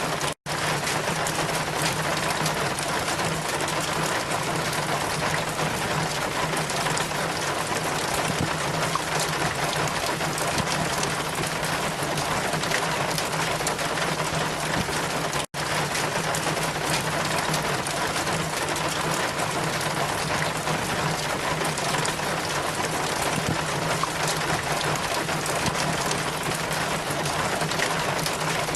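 Steady rain falling, an even hiss of drops, briefly cutting out twice, about half a second in and about halfway through.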